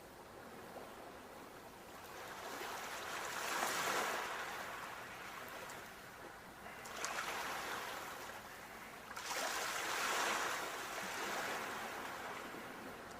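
Sea waves washing ashore in a steady hiss of surf, swelling and breaking three times, a few seconds apart.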